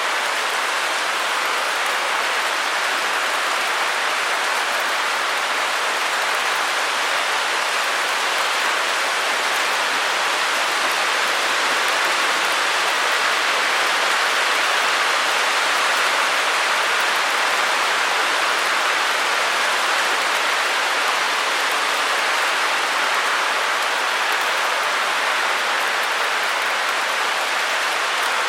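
Steady white noise: an even, unbroken hiss, strongest in the upper middle and with little low rumble, with no drops, clicks or changes.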